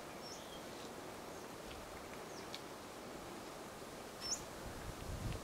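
A few short, high chirps from small birds, scattered over a steady faint hiss of bush ambience, with a couple of low thumps near the end.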